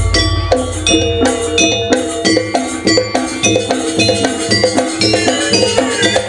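Live Banyuwangi gamelan music: struck metal keyed instruments and bells ring out in a quick, busy rhythm over a steady low drone.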